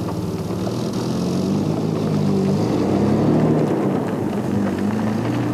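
Engine of a four-wheel-drive vehicle driving past, a steady hum with small shifts in pitch over the noise of the ride.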